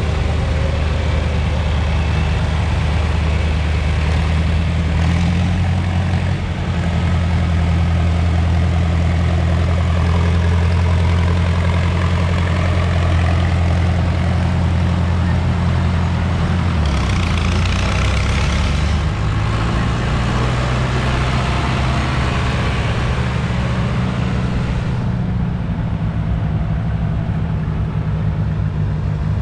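A vehicle engine runs steadily with a deep hum. Its pitch drops a little about 17 seconds in and shifts again a couple of seconds later, with a short rise in hiss at the same time.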